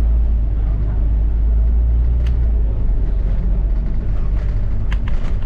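Double-decker bus heard from on board: a steady low rumble of engine and road noise. A few sharp rattles or clicks come about two seconds in and again near the end.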